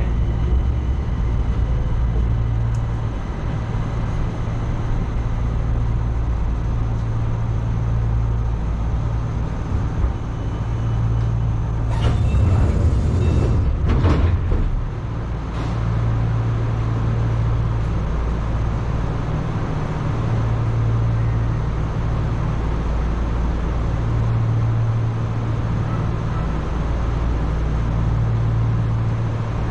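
Enshu Railway 2000-series electric train running, heard from inside the car: a steady low rumble with a low hum that swells and drops away every few seconds. About twelve seconds in, a loud rushing noise lasts a couple of seconds.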